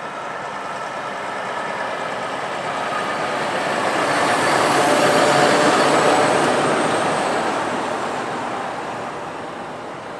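Heavy truck driving past, growing louder to a peak about halfway through and then fading away.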